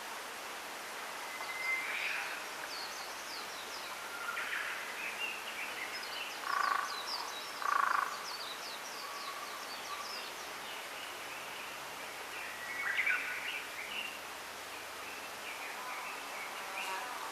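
Small wild birds chirping and calling in a bamboo grove: bursts of quick high chirps, a couple of drawn-out whistled notes, and two louder lower calls about a second apart near the middle, over a steady outdoor hiss.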